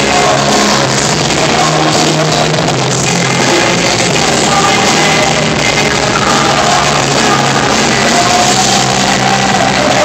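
Rock music from a band, loud and steady, with sustained sung or held notes over the instruments.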